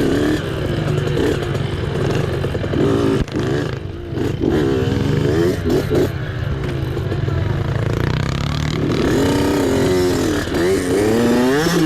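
Youth mini dirt bike engine running under load on a race trail, its pitch rising and falling as the throttle is worked, with quicker rev swings in the last few seconds.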